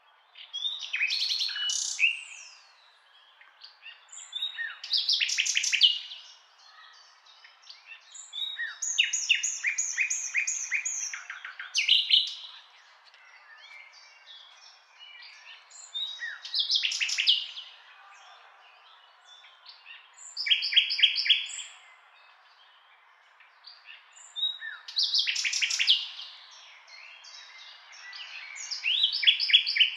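A songbird singing: short high phrases of about one to two seconds, some made of rapid repeated notes or trills, coming about every four seconds.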